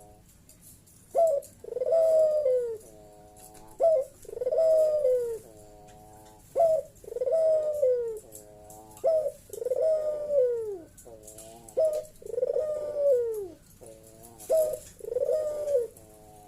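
Puter (ringneck dove) cooing loudly in a steady series of about six phrases, each a short clipped note, a long arched coo and a rolling trailing note, repeating every two and a half seconds or so.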